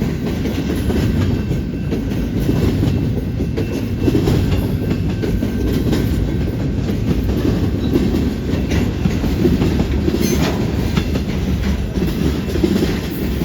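Freight train cars rolling steadily past with a low rumble, wheels clicking over the track here and there.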